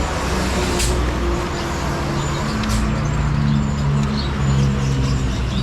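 Steady roadside traffic rumble, with a vehicle engine humming past partway through. Faint chirps from caged birds and two sharp clicks can be heard over it.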